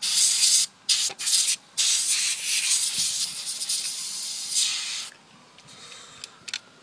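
Compressed air blasting dust off a graphics card's cooling fan: a loud hiss in three short bursts, then one long burst of about three seconds that cuts off suddenly.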